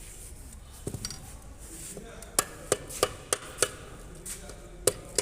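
Sharp hammer strikes on metal engine parts while the main bearing caps of a VVT-i engine are knocked loose during teardown. There are two quick knocks about a second in, then five strikes roughly a third of a second apart, and two more near the end.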